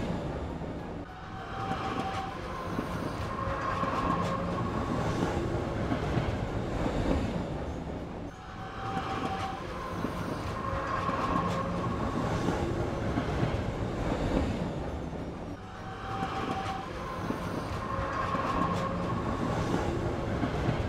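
Toy train's recorded train sound effect, played as a loop that repeats about every seven and a half seconds, with short held whistle-like tones in each pass.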